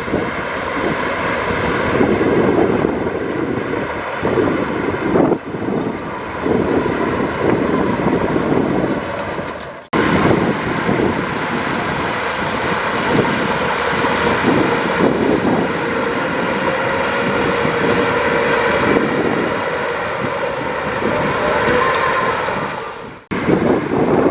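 Heavy tracked bulldozer working: diesel engine running under load with the clatter and squeal of its steel tracks, with a high faint whine above. The sound cuts off abruptly and resumes twice, about ten seconds in and again near the end.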